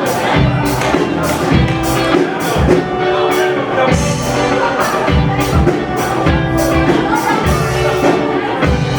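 Live wedding band playing an instrumental break of a Polish party song, with a steady dance beat of about two drum hits a second under sustained keyboard-like notes.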